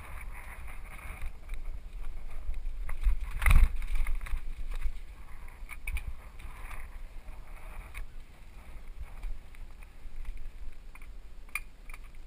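Wind on a helmet-mounted GoPro and low rumble as a full-suspension mountain bike rolls over rocks, with scattered clicks and knocks from the bike; one loud thump about three and a half seconds in.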